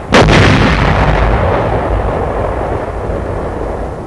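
A single loud artillery blast just after the start, followed by a long rumble that slowly dies away: an artillery shell bursting on target.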